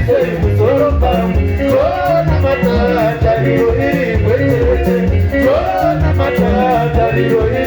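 Sungura band music: a busy, stepping bass line under bending high melody lines, with fine, steady percussion ticking on the beat.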